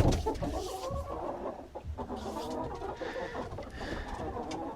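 Chickens clucking in short, overlapping calls, with at least one hen fussing because it is upset at being disturbed during egg collection.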